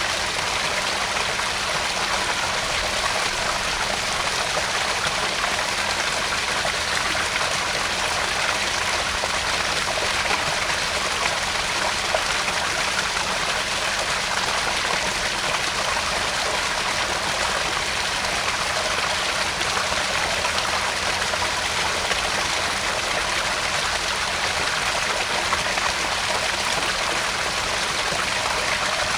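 Small garden pond waterfall: water spilling and splashing steadily into the pond.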